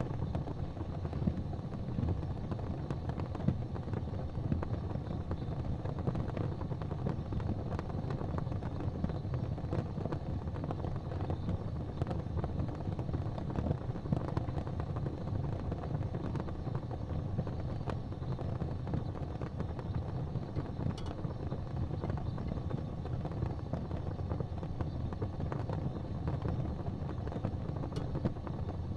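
Wood fire burning in a fireplace: a steady low rumble of flames with scattered small crackles, and two sharper pops, one about two-thirds of the way through and one near the end.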